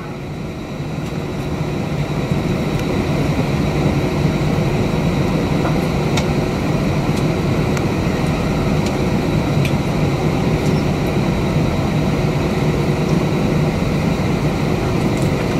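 Steady cabin drone inside an Airbus A320 holding still on the taxiway, its engines idling under the rush of cabin air. The low hum builds slightly over the first couple of seconds, then holds even, with a few faint clicks.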